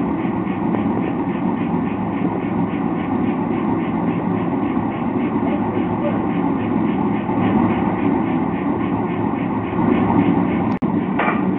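Blacksmith's forge running with a steady roar and a faint even pulsing.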